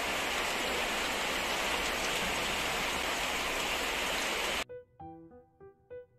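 Heavy rain shower pouring down steadily, cutting off suddenly about four and a half seconds in. Piano music follows near the end.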